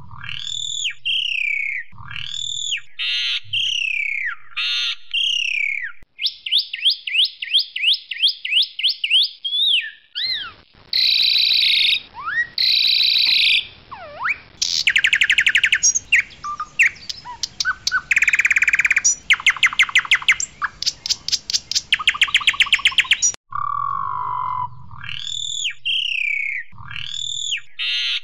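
Pied myna (jalak suren putih) singing a varied song. It gives loud, repeated down-slurred whistles, then a fast run of repeated notes and harsh chattering. Long, rapid trills follow, and the down-slurred whistles return near the end.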